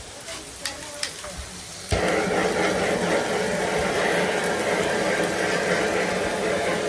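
Water running steadily from a tap, starting suddenly about two seconds in with a knock and tailing off near the end.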